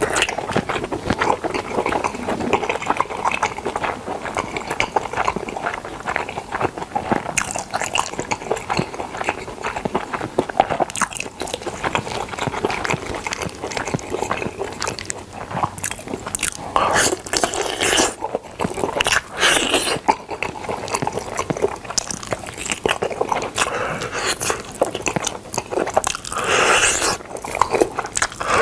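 Close-miked eating of smoked chicken: steady chewing and biting with small crackles, and a handful of louder bites spread through.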